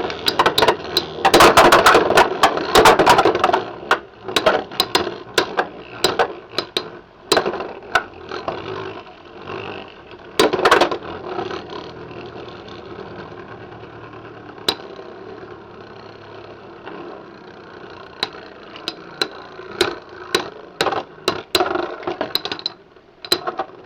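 Two Beyblade X tops spinning and clashing in a plastic stadium. A dense rattle of hits comes in the first few seconds and a sharp collision about ten seconds in. After that there is a steadier spinning whir broken by scattered clicks.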